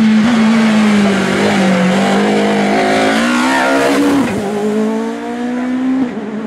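Hillclimb racing car's engine at high revs, pulling hard up the course; the revs drop sharply at a gear change about four seconds in, then climb steadily again.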